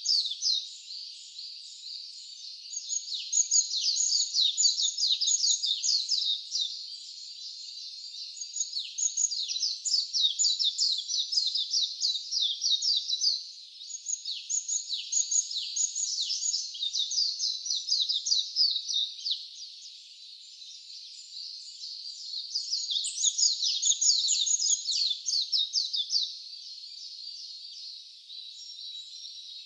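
Wild songbirds chirping and singing in rapid series of high, quick downward-sliding notes. The song comes in loud bursts of a few seconds each, with softer chirping between them.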